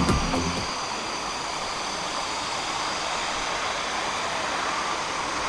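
Steady rush of a waterfall over rocks into pools. Electronic dance music fades out in the first moment.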